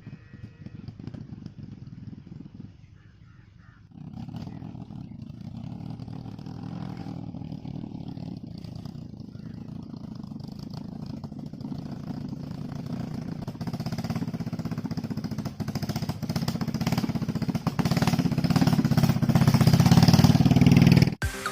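Honda Shine 125cc single-cylinder four-stroke motorcycle engine running, fading briefly about three seconds in, then picking up again and growing steadily louder, before cutting off suddenly near the end.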